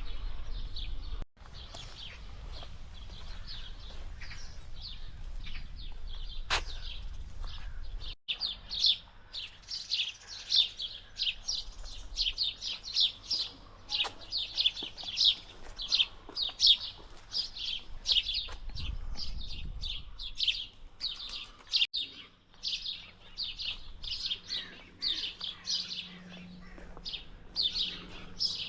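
Small birds chirping, a rapid string of short, high calls that grows dense after a few seconds, over a low rumbling background.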